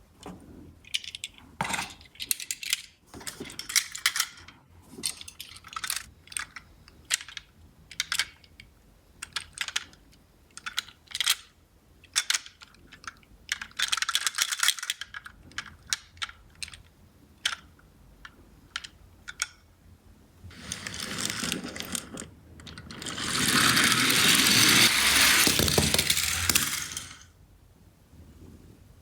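Small die-cast toy cars clicking and clinking as they are handled and knocked together, about one or two knocks a second, then a loud rattling rush for about four seconds near the end as they roll and slide over cardboard.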